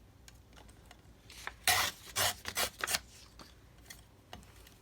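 Paper being rubbed and handled on a craft table: a handful of short strokes in quick succession, from about one and a half to three seconds in.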